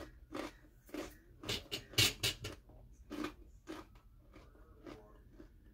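A person chewing a crunchy dried-cheese snack bar (cheese and jalapeño): an irregular run of loud, sharp crunches that thins out after about three and a half seconds into softer chewing.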